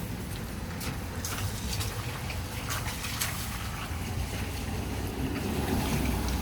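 Rain falling, with scattered close drops ticking and a low rumble that swells near the end.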